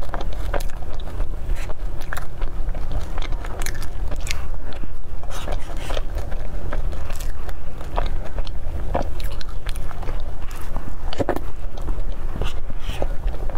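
Close-miked chewing and mouth sounds of someone eating soft cream cake, with many short wet clicks and smacks and the occasional scrape of a spoon through the cake, over a steady low hum.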